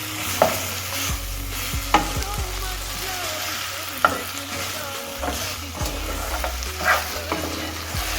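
Beef frying with onions and ginger in a pan, a steady sizzle, while a utensil stirs it and knocks sharply against the pan four times.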